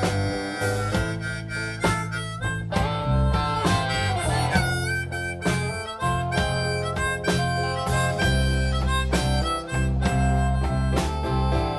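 Blues band playing an instrumental break: a harmonica solo with held and bending notes over guitar and a steady bass line.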